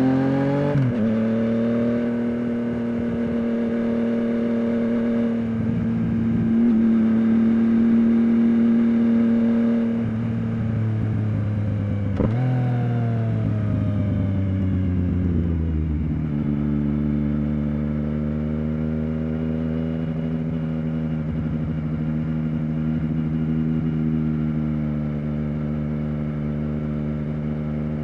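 Yamaha FZ-09's inline-three engine running under load. Its pitch climbs, then drops at a break about a second in and holds steady. Near the middle there is a sharp click, and the pitch falls away over a few seconds before settling steady at a lower note.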